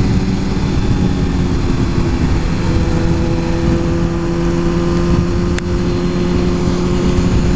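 Suzuki GSX-R 1000's inline-four engine running at a steady speed under way, its pitch nearly constant, over a dense low rush of wind and road noise.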